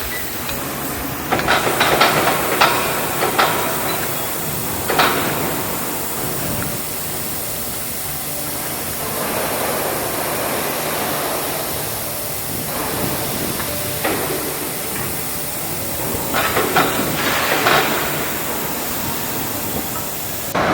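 Assembly-shop noise: a steady hiss with three clusters of sharp metal clattering and knocking, early, around five seconds in and near the end.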